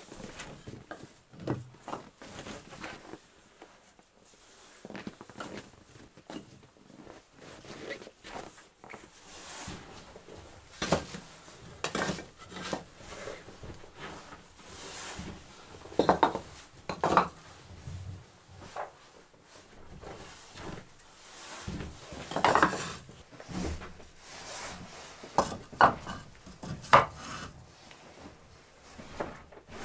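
Irregular knocks and clatter of pots, dishes and wood being handled, a few of the strikes ringing briefly like metal or crockery.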